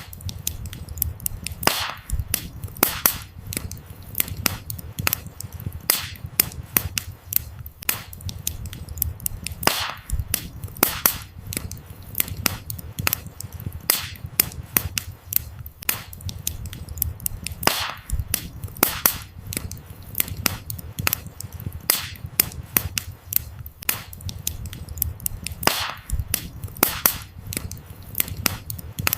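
Wood fire crackling: a constant run of sharp pops and snaps of burning firewood over a low rumble of flames. The pattern of the loudest pops repeats about every eight seconds, as in a looped recording.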